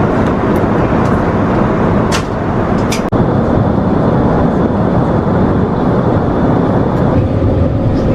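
Loud steady rush of cabin noise inside an Airbus A380 airliner. There are two short high hisses about two and three seconds in, and the tone of the noise shifts near the end.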